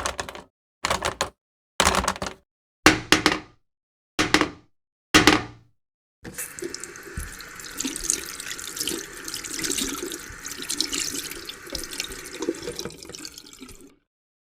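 A run of about six short, separate sounds, roughly one a second, each with a sharp start and a brief fading tail. Then water runs steadily from a tap into a sink for about eight seconds and stops suddenly.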